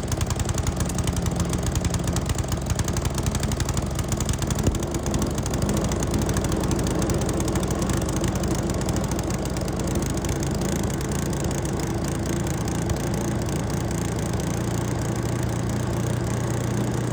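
Wood chipper's small gasoline engine running at a steady, even speed.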